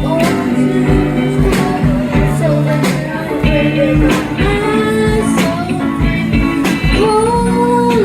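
Band playing a rock song live: a sung melody over guitar chords and a steady drum beat.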